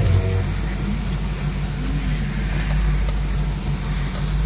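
Vehicle engine running steadily while driving, a constant low hum with a steady hiss of road and wind noise over it.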